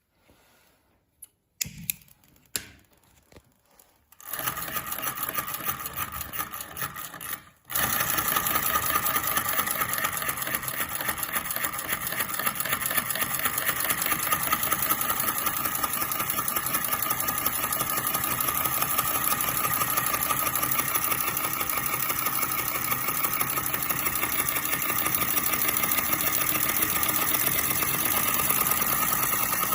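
Small crossbeam flame-eater (vacuum) model engine running with a rapid, even mechanical clatter. A few faint clicks come first; the clatter starts about four seconds in, cuts out briefly just before eight seconds, then runs steadily and a little louder.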